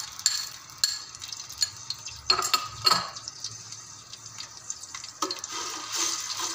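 Ginger and garlic paste sizzling in hot oil in a metal cooking pot, with a spoon scraping and clicking against the paste container and the pot, a few louder knocks about two to three seconds in. Near the end a spoon stirs the paste through the frying oil.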